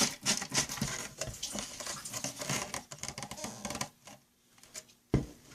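Plastic cap being screwed back onto a humidifier's water tank: rapid plastic clicking and scraping for about four seconds, then a short pause and a single thump near the end.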